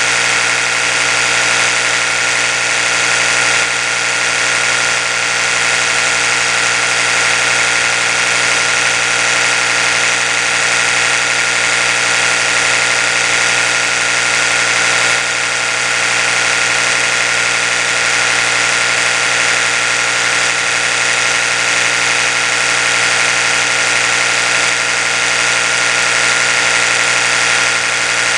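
Oral-B electric toothbrush running steadily: a continuous buzz that holds one even pitch throughout.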